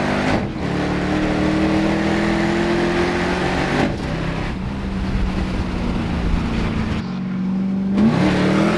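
Holden car's engine heard from inside the cabin while driving, pulling with slowly rising revs, dropping at a gear change about four seconds in, then climbing again near the end.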